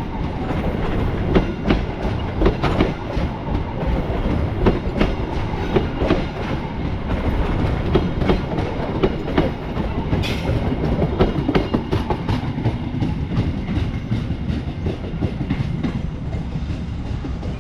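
Train cars rolling past, the wheels clicking over the rail joints in an uneven clickety-clack over a steady rumble. A brief hiss about ten seconds in.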